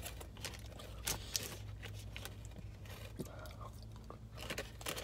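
A person chewing and biting fast food close to the microphone, with small crunches and mouth clicks scattered through, over a steady low hum.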